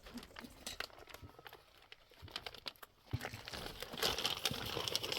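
Crinkling and rustling with scattered sharp clicks, becoming louder and denser about three seconds in, like a sheet of material being handled.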